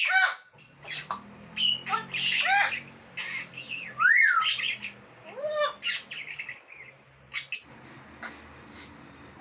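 Parrot squawking and whistling in a string of short calls, several with rising and falling pitch glides; the loudest is about four seconds in.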